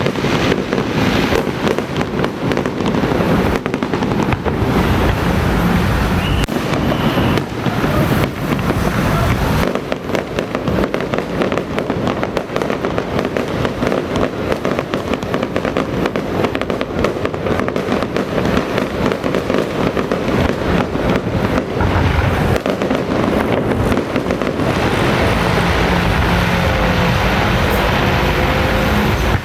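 Long, rapid string of firecracker bangs crackling without a break. About 25 seconds in it gives way to a steadier, denser rush.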